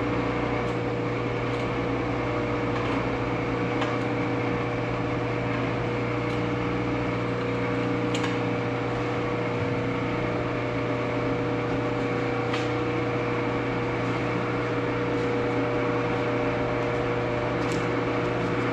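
Clausing metal lathe running on its electric motor: a steady hum with a constant whine over it and occasional faint ticks. The motor runs smoothly, showing it is good after a long idle spell.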